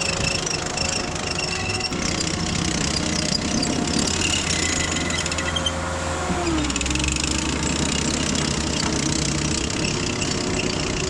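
Diesel engine of a piece of earthmoving equipment running steadily, its engine speed dropping a little about six seconds in.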